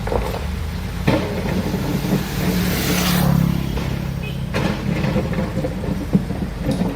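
Heavy diesel engine of construction machinery running, swelling louder and higher for a couple of seconds midway as it works under load, with a few sharp metal clanks.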